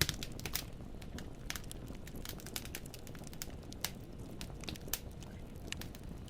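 Wood fire in a fireplace crackling: irregular sharp pops and snaps of burning logs over a steady low rumble of flame.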